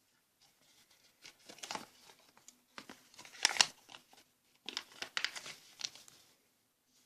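A sheet of paper being handled and folded into an origami ship, crinkling and rustling in irregular bursts; the loudest comes about three and a half seconds in.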